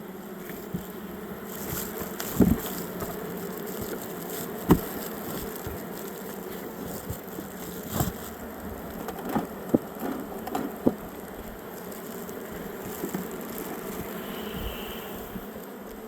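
Honeybees buzzing steadily around an opened hive, with a handful of sharp knocks and clicks scattered through.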